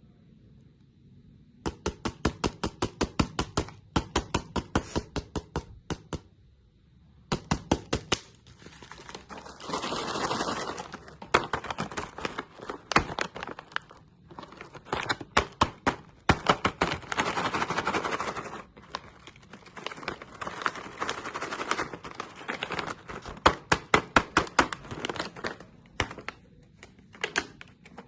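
Crunchy candy being crunched: rapid runs of sharp cracks and clicks, several a second, with stretches of denser crackling crunch. It starts about a second and a half in.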